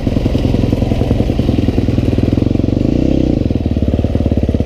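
Four-stroke 250 dirt bike engine running at steady revs under way, its fast, even firing pulses loud on the rider's helmet camera.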